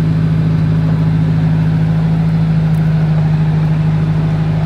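Cummins X15 diesel engine of an International HX620 tri-axle truck running at a steady speed, a constant low drone.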